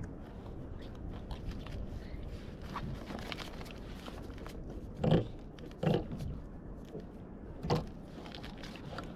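Fishing gear being handled aboard a kayak: scrapes and small clicks over a steady low rumble, with three louder dull knocks, two close together about halfway through and one more a couple of seconds later.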